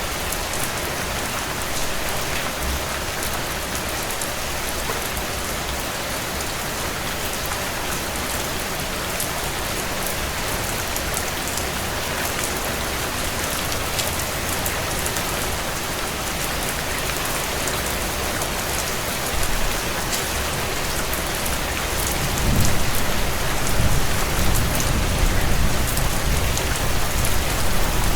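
Heavy rain on window panes, a steady hiss with scattered sharp ticks, with the crackle of a wood fire in a stone fireplace. A low rumble swells in near the end.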